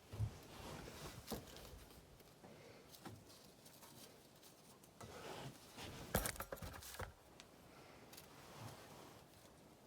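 Scattered light clicks, taps and knocks of hand tools and metal parts being handled while sawmill blade guides are adjusted. The loudest knocks come just after the start and again about six seconds in.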